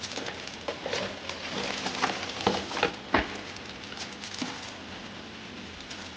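Steady rain hiss, with a run of irregular close taps and clicks over the first few seconds that stops about two thirds of the way through.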